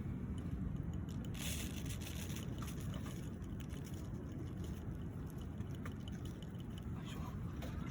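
Steady low rumble of wind and surf on the seashore, with a brief burst of hiss about a second and a half in and a few faint crackles.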